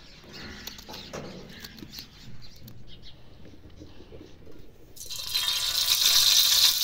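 Hot oil sizzling loudly as saag is cooked in a pan over a wood fire. The hiss starts suddenly about five seconds in, after a few seconds of faint background with bird chirps.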